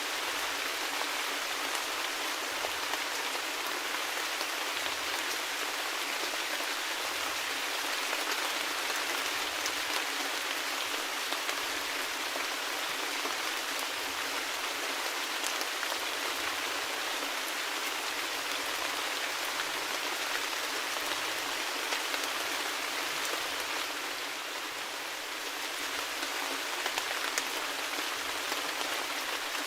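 Steady rain falling, a dense even hiss with many small drops tapping on surfaces. It eases slightly for a couple of seconds near the end.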